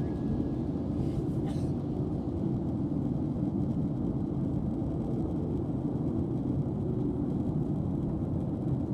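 Steady low rumble inside the cabin of a Southwest Boeing 737 airliner: engine and airflow noise heard from a passenger seat.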